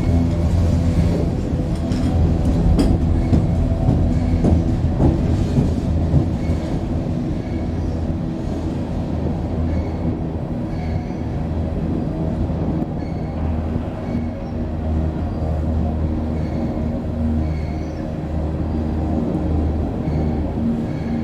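A train crossing a railway bridge overhead, heard from beneath: the bridge gives off a steady low drone from the constant vibration, pulsing slightly, with faint ticks every second or so.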